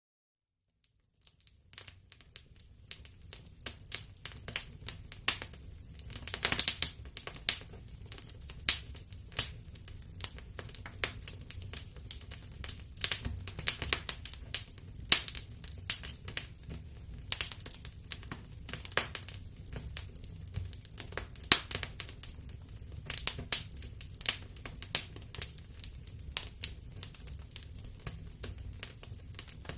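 Wood fire burning in a fireplace, crackling and popping with irregular sharp snaps over a low steady rumble of the flames. It fades in about a second in.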